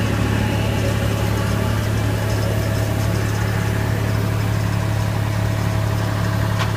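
Tractor engine running steadily at a constant speed, a deep even drone with a faint thin whine over it.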